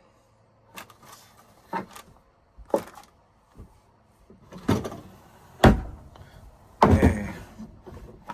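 Cabinet doors in a camper's interior being opened and shut: a series of knocks and thuds, about one a second, growing louder, with the two loudest about two-thirds of the way in and near the end.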